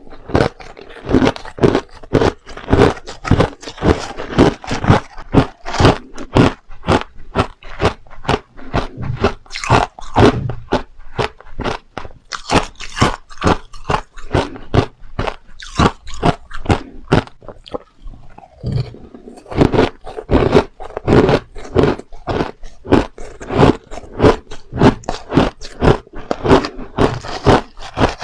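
Close-miked biting and chewing of hard crushed ice: rapid, loud crunches, several a second, with a short pause about two-thirds of the way through.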